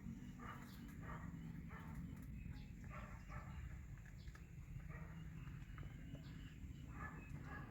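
Faint short animal calls repeating a few times a second, over steady low background noise.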